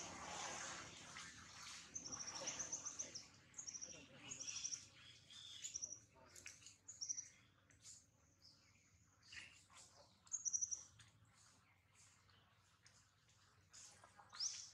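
A small bird chirping in the background in short, high-pitched trilled phrases, repeated every second or so, with a few faint clicks and rustles in between.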